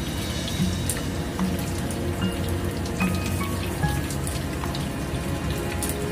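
Chicken wings sizzling in a frying pan, a steady frying hiss with irregular crackles and pops.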